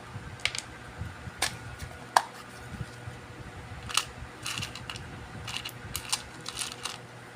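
Scattered sharp clicks and light rattles of small hard objects being handled, the sharpest about two seconds in, over a faint steady electrical hum.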